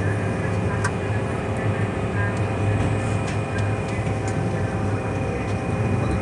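MTR M-train electric multiple unit running at steady speed: a continuous low rumble with a steady electrical whine at several pitches and a few faint clicks.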